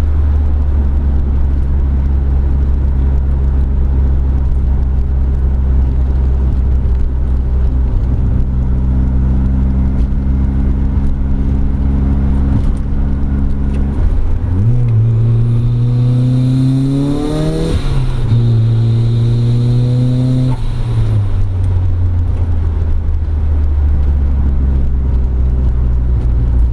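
Turbocharged Mazda Miata's four-cylinder engine through a 3-inch catback exhaust: a steady low drone while cruising, then about halfway through it accelerates under boost with a rising note and added hiss, drops in pitch suddenly at a gear change, pulls on briefly, and settles back to a low steady cruise near the end.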